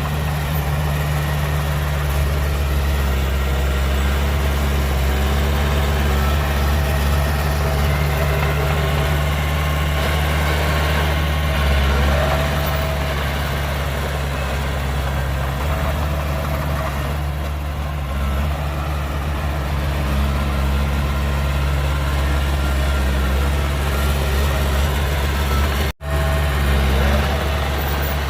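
Heavy diesel earthmoving machinery, a bulldozer or dump truck, running steadily with a deep, even engine note. Near the end the sound cuts out for an instant.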